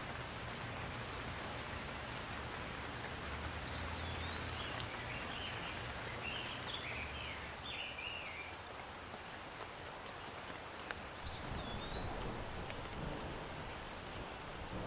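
Steady rain falling, with a bird calling in a short series of rising and falling notes a few seconds in and again briefly near the end.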